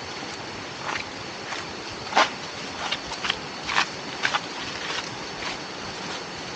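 Uneven footsteps or short knocks, a few each second at irregular gaps, over a steady hiss with a thin high whine.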